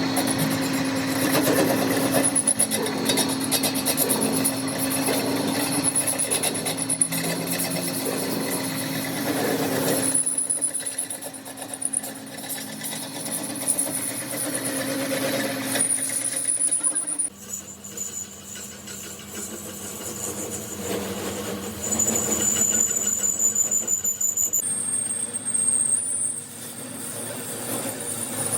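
Steady mechanical running noise with a high whine, typical of metalworking machinery, changing abruptly several times.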